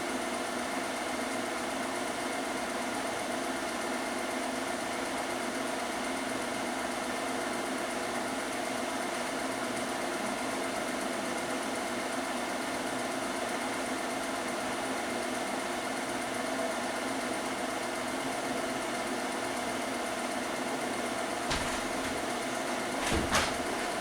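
A small machine running steadily, a mechanical hum made of several constant tones, with a few short knocks near the end.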